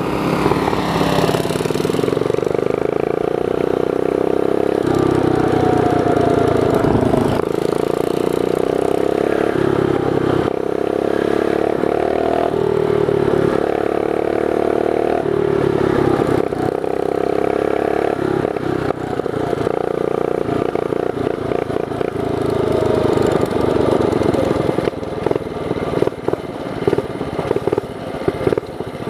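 Ungoverned 212cc clone single-cylinder four-stroke on a Monster Moto mini bike, fitted with a Mikuni VM22 carburetor and an aftermarket exhaust, running hard under load. The engine note steps up and down every few seconds as the throttle is worked, and it turns choppier near the end as the throttle is eased off.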